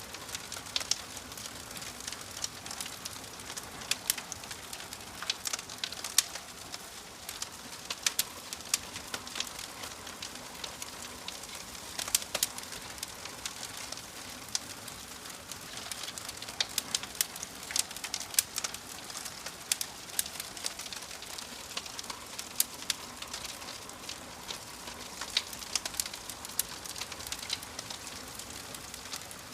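Wood fire in a fireplace crackling: a soft steady hiss broken by frequent irregular sharp pops and snaps, a few of them much louder than the rest.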